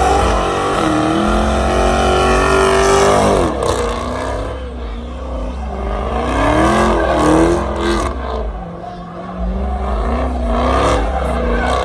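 Car engine revving hard over a deep rumble, its pitch climbing, holding, then dropping and rising again several times.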